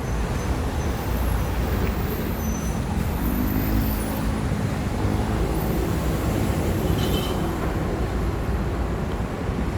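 Steady road traffic noise on a city street, with the hum of a passing vehicle's engine in the middle and a brief hiss about seven seconds in.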